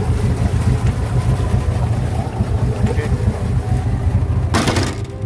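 Tugboat's diesel engine running steadily in its engine room, a loud low rumble. A brief rushing hiss cuts in near the end.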